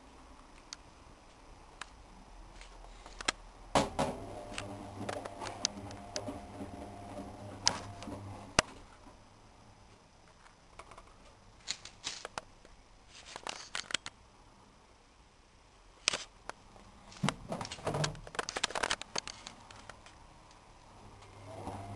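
Zanker 5033 washing machine: irregular sharp clicks and knocks. A low steady hum comes in about four seconds in, stops a few seconds later and returns near the end.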